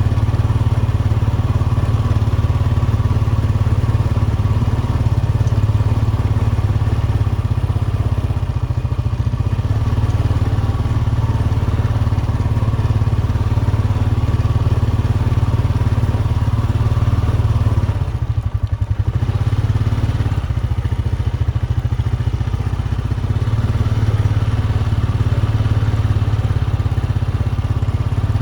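Four-wheeler ATV engine running steadily while being ridden, easing off briefly about two-thirds of the way through.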